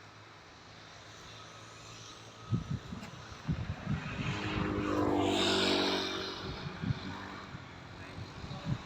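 A motor vehicle passing by: its engine and tyre noise rise to a peak and fade away over about three seconds. Irregular low thumps run through the second half.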